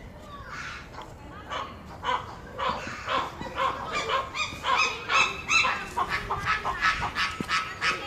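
A bird honking over and over, about two calls a second. The calls start about a second in and get louder as they go on.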